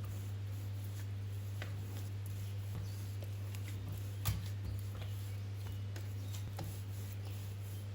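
Scattered light clicks and taps of small objects being handled, with one sharper click about four seconds in, over a steady low hum.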